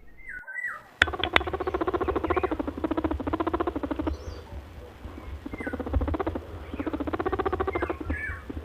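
Rabbit chattering: a fast buzzing trill of clicks with short high squeaks between, starting about a second in.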